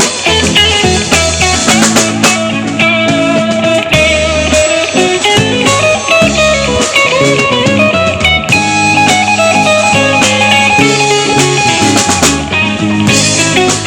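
Live rock band playing an instrumental break: a guitar plays a lead line over bass and drum kit.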